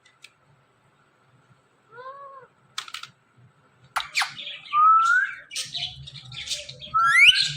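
Ringneck parrot calling: a short rising-and-falling call about two seconds in, then from about four seconds a busy run of rising whistles and harsh squawks, loudest near the end.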